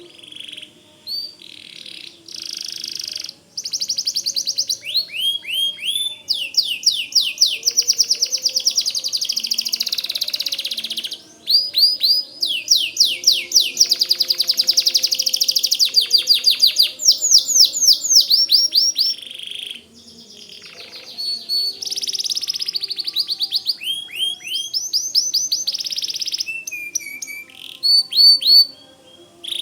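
White canary singing long, fast runs of rapidly repeated high notes, each a quick downward sweep, strung together with rolls and held tones and broken by only brief pauses.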